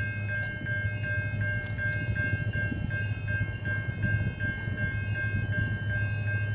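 A train running with a steady low hum, with a high tone that pulses about four times a second throughout.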